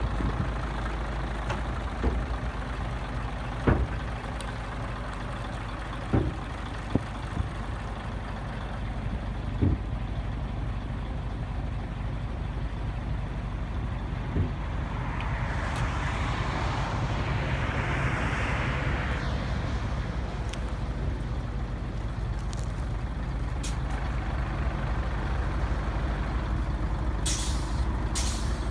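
Scania 113H truck's six-cylinder diesel engine running steadily, with a few sharp knocks early on. There is a swell of hissing noise about halfway through and short bursts of air hiss near the end.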